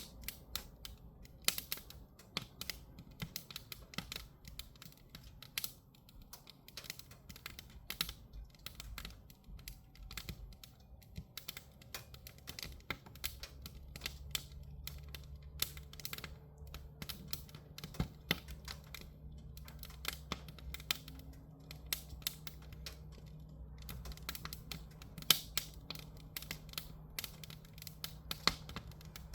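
Firewood crackling and popping as it burns in a camping wood stove: irregular sharp snaps, several a second, over a low steady hum that comes in about halfway.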